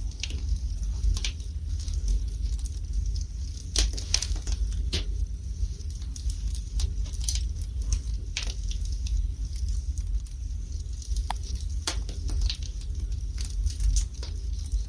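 Fire burning in a fireplace: irregular sharp crackles and pops, thickest about four seconds in and near the end, over a steady low rumble.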